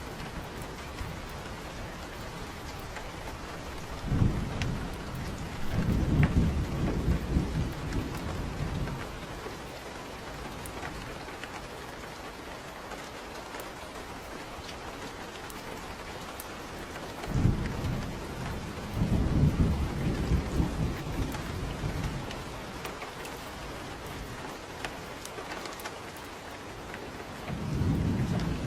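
Steady rain falling, with rolling thunder rumbling three times: twice for several seconds each, about a quarter and two-thirds of the way in, and once more starting near the end.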